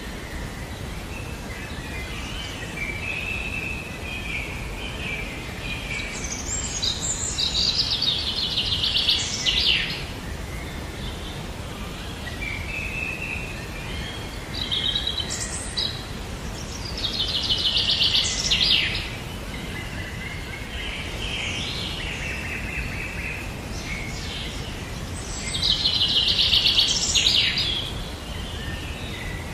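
A songbird singing: a phrase ending in a fast high trill comes about every nine seconds, three times, with softer chirps and notes between, over a low steady background rumble.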